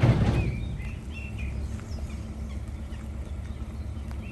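BMC 1.5 diesel engine of a narrowboat idling with a steady low throb, opened by a short loud rush of noise; a few birds chirp faintly in the first second or so.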